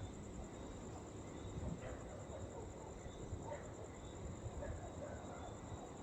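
Insects chirring steadily in a high, fast, even pulse over a low rumble, with faint scattered calls in the middle range.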